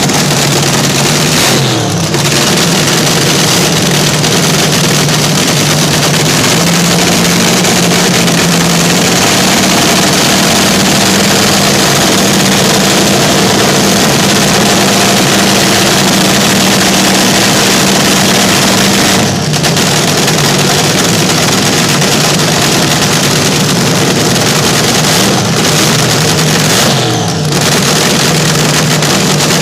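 Vintage slingshot dragster engines running very loud at steady high revs. The pitch steps up a little several seconds in and drops back after a short dip about two-thirds of the way through, with a couple of other brief dips in level.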